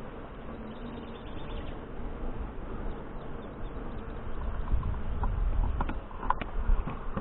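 Honey bees buzzing steadily in an open hive, with a few sharp clicks about six seconds in.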